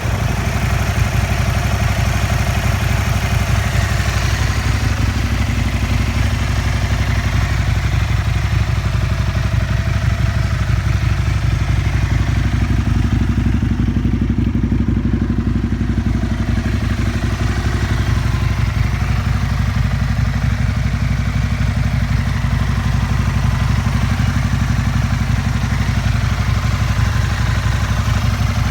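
Aprilia SL 1000 Falco's V-twin idling steadily through a full LeoVince SBK exhaust.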